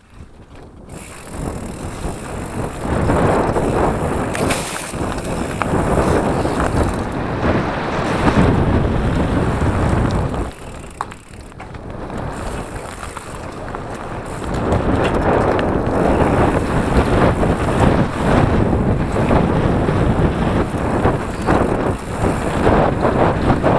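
Mountain bike ridden along a dirt forest trail: tyres rolling and crunching over the ground, the bike rattling, and wind buffeting the microphone. It eases off for a few seconds about ten seconds in, then picks up again.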